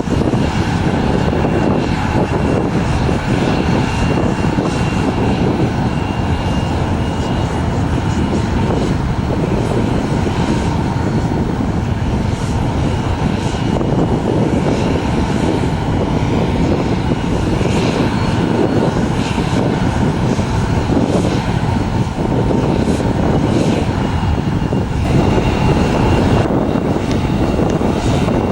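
CRJ-900 regional jet's turbofan engines running up close: a loud, steady roar with a thin, constant high whine over it.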